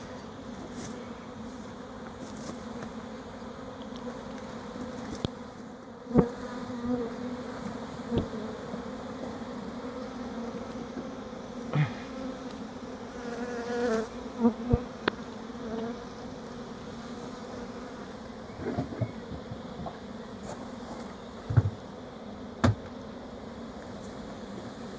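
A swarm of honeybees buzzing in a steady hum, with a few sharp knocks scattered through.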